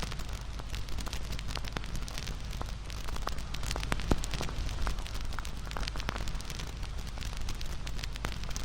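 Wood fire crackling: many sharp snaps and pops over a steady low rumble of flames, with one louder pop about four seconds in.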